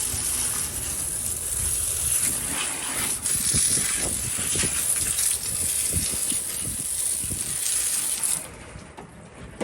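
Water spraying from a hose onto a car engine, a steady hissing spray with spatter that cuts off about a second before the end.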